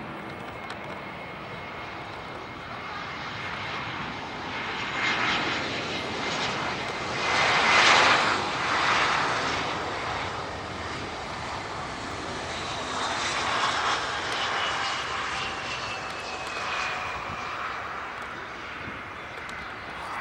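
An Airbus A320-family jet airliner passes low on its landing approach. The engine noise swells to its loudest about eight seconds in, and a thin whine falls slowly in pitch as the aircraft moves on down the runway.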